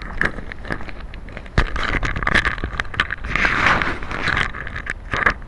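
Handling noise: rustling and scraping against the microphone in a few bursts of about a second, with scattered clicks and one loud knock about one and a half seconds in.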